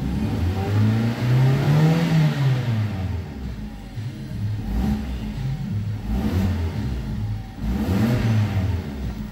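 Chery J3's 1.6-litre four-cylinder petrol engine revved up and let fall back to a fast idle three times, heard from inside the cabin. It is an engine test of a used engine that is rated as running well.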